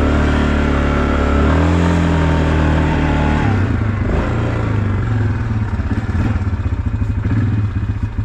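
Engine of a small off-road vehicle being ridden hard on a snowy trail, its pitch shifting up and down as it is revved. About three and a half seconds in it drops to a lower, pulsing, uneven running as the vehicle slows at the end of the run.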